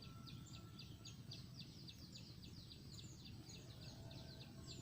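Faint, rapid series of short, high chirps, each sliding down in pitch, about five a second and keeping an even pace: a small bird calling, over a low background hum.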